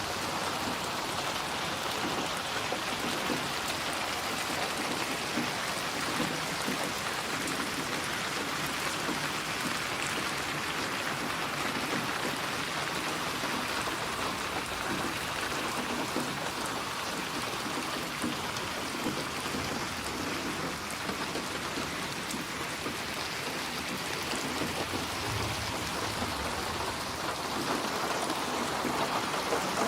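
Steady rain falling, with a fine patter of drops on a surface.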